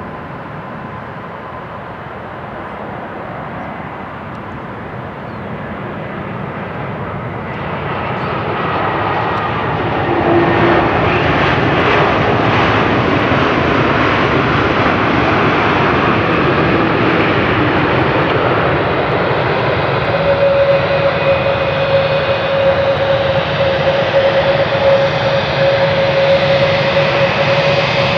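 Lufthansa Airbus A320neo's Pratt & Whitney geared-turbofan jet engines on landing approach, growing steadily louder over the first ten seconds and then staying loud and steady as the aircraft passes close by. A steady whine joins the engine noise about two-thirds of the way through.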